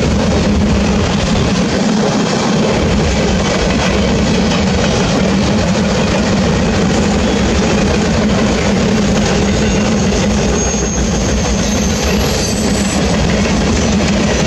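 Freight train boxcars rolling past, a steady rumble and clatter of steel wheels on the rails.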